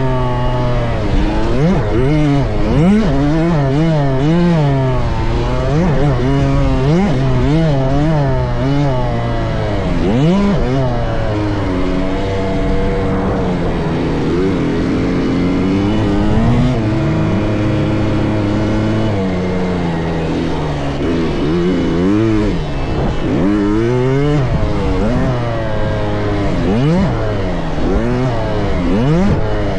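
Several motocross dirt bikes running on a track, their engines revving up and falling again over and over as they accelerate and back off, with a steadier held pitch for a few seconds midway.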